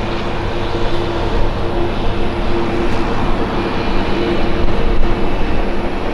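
Aircraft engines running loud and steady at close range, a rushing noise with two steady hum tones underneath.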